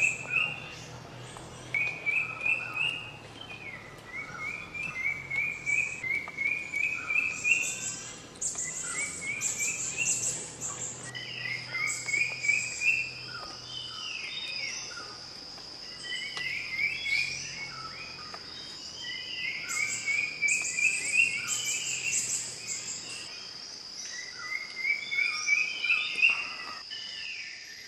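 Forest birds singing: a phrase of quick notes stepping upward in pitch, repeated over and over, with sharper high chirps between. About eleven seconds in, a steady high insect drone starts and carries on.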